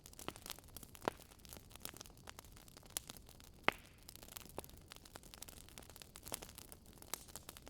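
Wood fire crackling: scattered sharp pops and snaps at irregular intervals over a soft hiss, one louder pop about halfway through.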